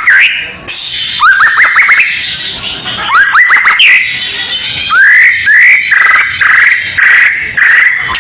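White-rumped shama (murai batu) song: loud, rapid runs of sharp rising whistled notes and chattering trills, repeated in quick phrases.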